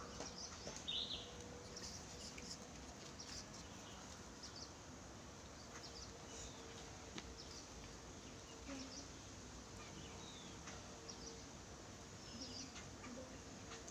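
Small birds chirping faintly in short, scattered calls, with a few light clicks, over a faint steady hum.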